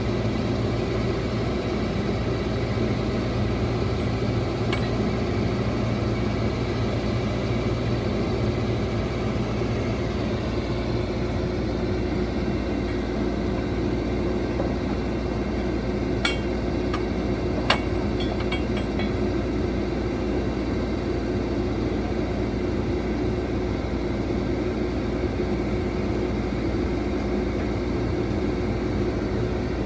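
Heavy construction machine's diesel engine running steadily, with a few sharp metallic clinks about 16 and 18 seconds in.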